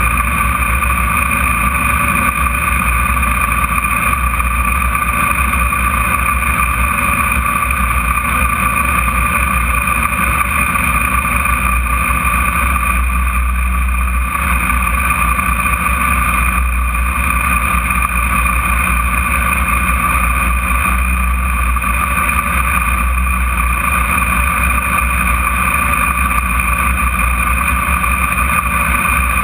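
Radical sports car's engine idling steadily while the car waits at the start line.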